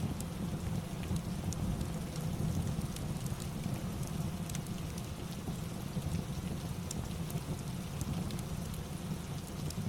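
Steady rain ambience with a low rumble, mixed with a fireplace's scattered small, sharp crackles.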